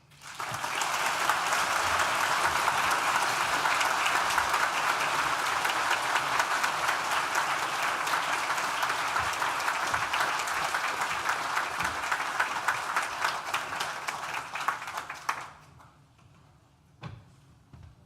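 Audience applauding: dense, steady clapping that starts at once and dies away about fifteen seconds in.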